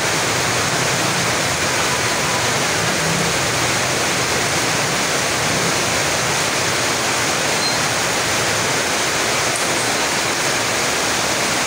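Rain falling, a steady even hiss that masks everything else.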